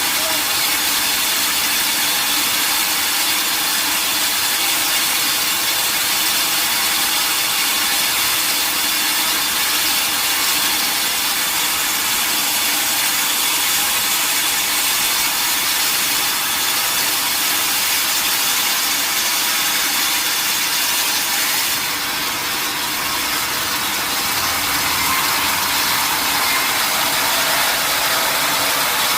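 A sawmill saw cutting through a mahogany log: a steady, dense, high-pitched noise with a machine hum under it, easing off slightly for a couple of seconds near the end.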